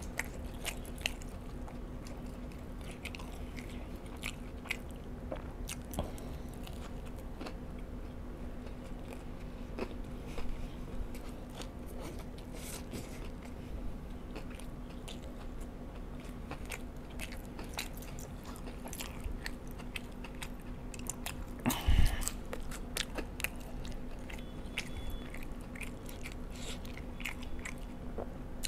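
Close-miked eating sounds: a person biting and chewing pieces of a spicy burger bun, with wet lip smacks and small clicks. There is one louder, brief noise about three-quarters of the way through.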